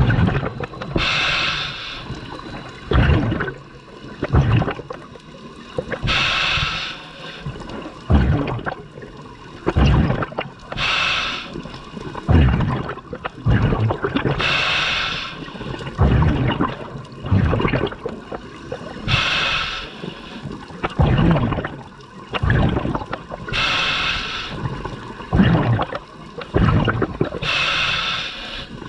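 Scuba diver breathing through a regulator underwater: a burst of exhaled bubbles about every four to five seconds, with quieter breathing sounds from the regulator between them.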